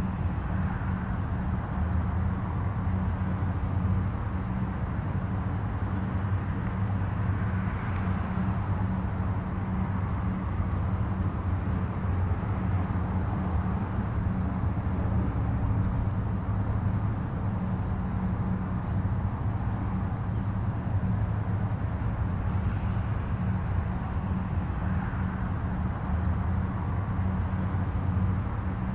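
Distant highway traffic: a steady rush of tyres and engines over a low hum, swelling gently now and then as vehicles pass.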